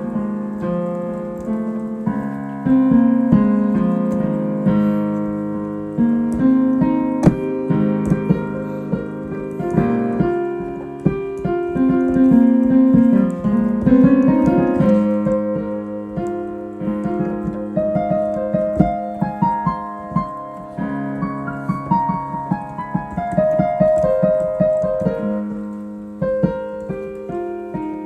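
Solo piano improvisation: chords struck and left to ring under a melody that moves up and down, with flurries of quick notes in places.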